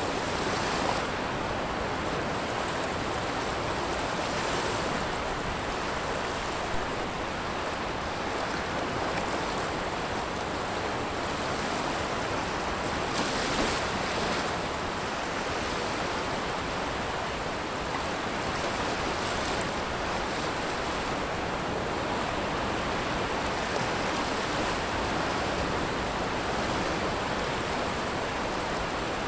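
Ocean surf washing over a pebble beach: a steady, unbroken wash with a hiss that swells and eases every few seconds, a little louder about halfway through.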